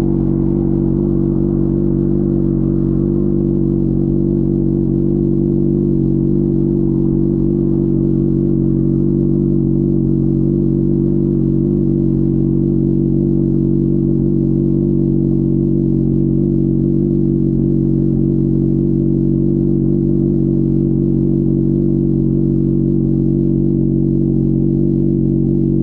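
Honda CBR600RR's inline-four engine running at a steady, unchanging engine speed, with no revving.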